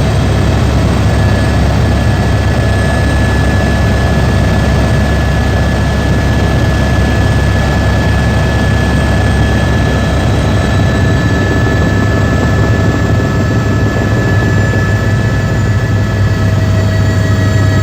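Helicopter turbine engine and rotor running steadily, heard from inside the cabin: a loud, even low drone with a steady high-pitched whine over it.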